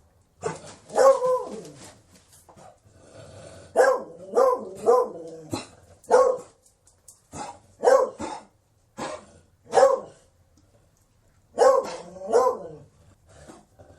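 A beagle barking in short, repeated barks, some with a falling, howling pitch, in bursts of two or three with short pauses between.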